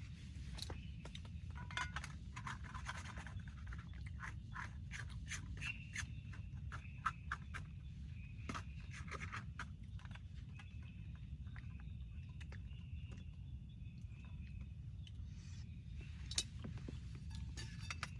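Irregular small scraping and clicking sounds, as of objects being handled close by, over a steady low rumble and a faint steady high hum. Two sharper ticks stand out, one about seven seconds in and one near the end.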